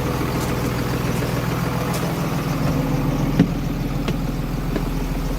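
Front-mounted engine of a 2000 Blue Bird conventional school bus idling steadily, its tone shifting slightly about halfway through. One sharp click sounds just after that.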